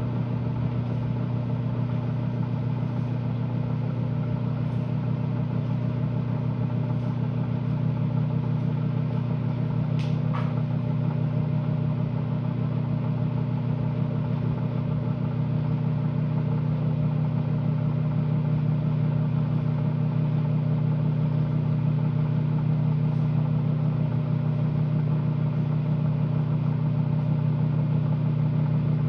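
Microwave oven running with a steady hum while heating toothpaste, getting slightly louder about halfway through. A single short click about ten seconds in.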